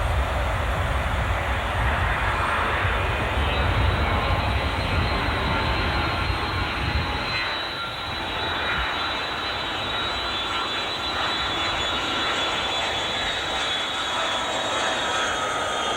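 Jet airliner engines running, a deep rumble with a high whine on top. The rumble drops away about halfway through, leaving the whine, which slowly falls in pitch near the end.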